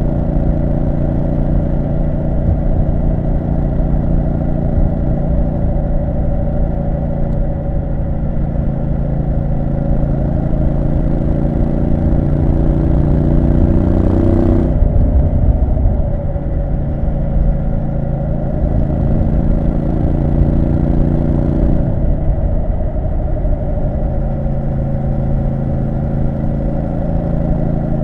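Triumph Street Scrambler 900's parallel-twin engine running under way. Its pitch climbs for a few seconds about halfway through, then drops suddenly, and it changes again abruptly near the end.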